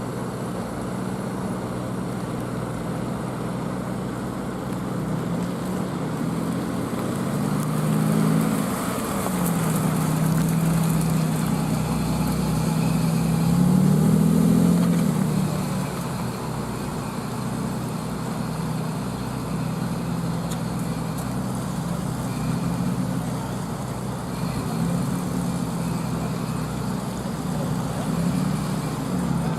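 Car engines in street traffic, their pitch rising and falling as cars pull away and pass, loudest about eight seconds in and again around fourteen seconds.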